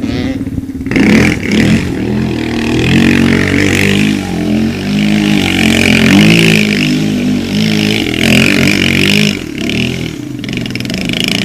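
Dirt bike engine revving, its pitch rising and falling again and again as the throttle is worked, louder from about a second in.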